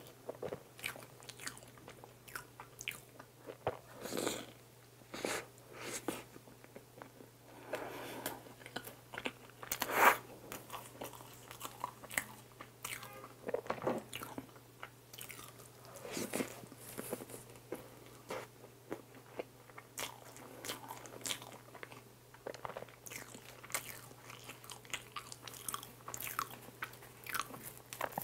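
Close-miked chewing of soft bread dipped in warm cream, heard as a steady run of short mouth clicks and crackles with one louder click about ten seconds in.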